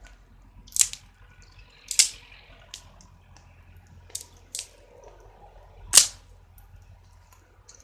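Wood campfire crackling, with a few sharp pops: loud ones about a second in, at two seconds and at six seconds, and smaller ones between.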